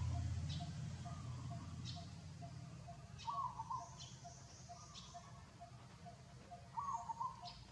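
Outdoor animal calls: short chattering calls come every couple of seconds, the clearest a little past three seconds in and near the end. Under them runs a steady series of soft pips, about two a second. A low rumble fades out over the first couple of seconds.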